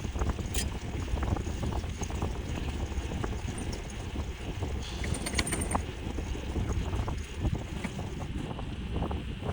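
Wind buffeting the microphone over the low rumble and small rattles of a moving e-bike, with a brief high squeak about five seconds in.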